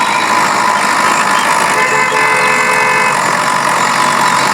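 Steady mechanical running noise with a thin constant whine. A horn-like tone sounds for about a second, a little under two seconds in.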